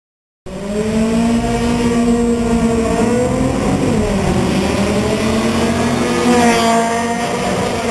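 A Honda CRX's four-cylinder engine revving hard under full acceleration in a sprint run. The sound cuts in abruptly about half a second in, and the engine pitch dips and recovers about halfway through, then rises again near the end as the car passes.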